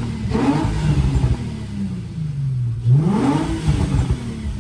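Infiniti G35's 3.5-litre V6 engine being revved: a short blip just after the start, then a bigger rev about three seconds in whose pitch climbs quickly and sinks slowly back down.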